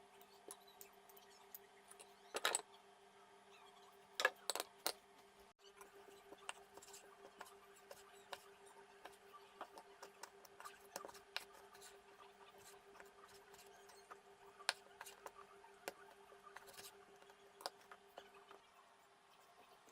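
Light metallic clinks and taps of a metal hand-cranked meat grinder's parts being handled, with a cluster of louder clicks about two and a half and four seconds in. A faint steady hum sits underneath and stops near the end.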